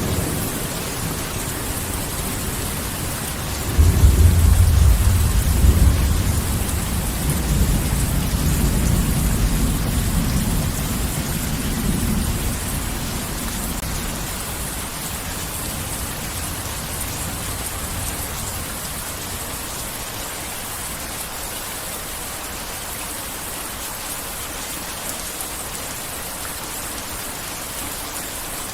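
Heavy rain falling steadily. About four seconds in, a loud, deep thunder rumble starts suddenly, rolls on for several seconds and slowly fades away.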